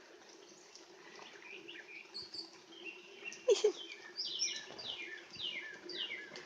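Bird song: scattered chirps, then a quick series of downward-slurred whistled notes repeating about three times a second, with one louder sharp call about three and a half seconds in.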